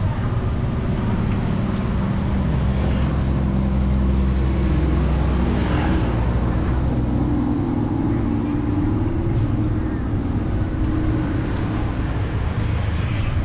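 City street traffic heard from a moving bicycle: the steady mixed running of passing vehicle engines, with a deeper engine hum strongest between about two and seven seconds in.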